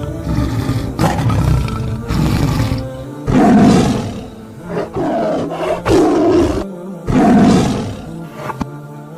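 A large animal giving a series of loud, rough calls, four or so in the second half, each under a second long, over steady background music.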